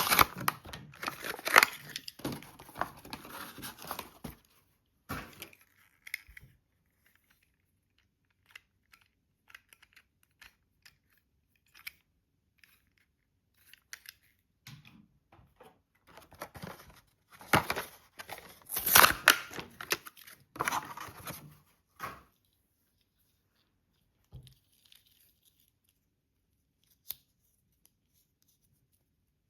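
Toy car packaging being opened by hand: bursts of plastic and card crinkling and tearing, busiest in the first few seconds and again past the middle, with scattered small clicks and quiet gaps between.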